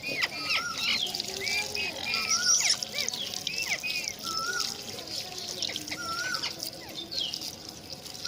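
Several parrots chattering and calling together: many short whistled notes that rise and fall, with one arching call recurring about every two seconds.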